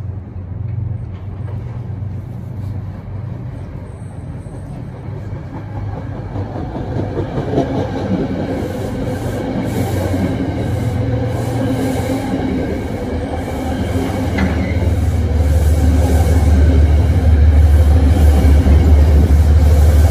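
Metro-North commuter train approaching and running past along the station platform. A rumble grows steadily louder, with the wheels clicking over rail joints in the middle, and a heavy low rumble is loudest near the end.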